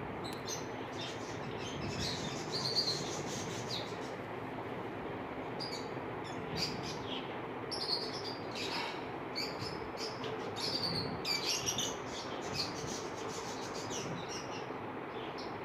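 A flock of caged budgerigars chirping, many short high chirps one after another over a steady background hiss.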